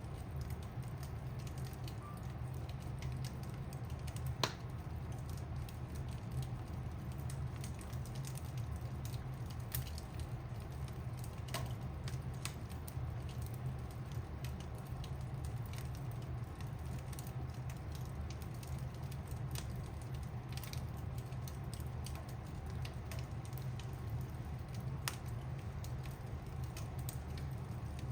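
Wood fire burning in a fireplace: a steady low rumble with constant small crackles and occasional sharper pops from the burning logs, the loudest pop about four seconds in.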